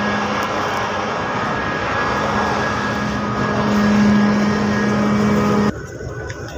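Steady engine drone with a low hum, typical of a ship's engine running. It cuts off suddenly near the end.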